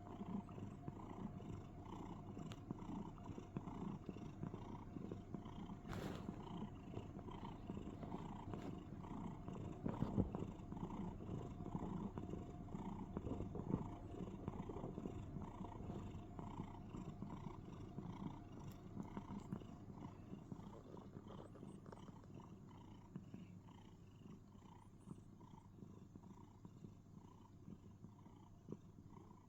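Domestic cat purring steadily close up, with soft pulses about twice a second, growing quieter near the end.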